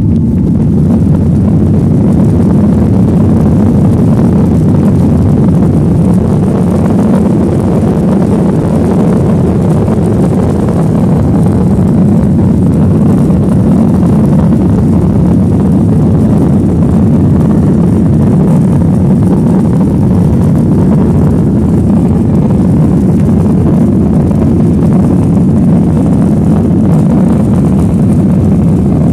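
Boeing 737-900ER's CFM56-7B turbofan engines at takeoff power, heard from inside the cabin as a loud, steady, deep engine and airflow noise.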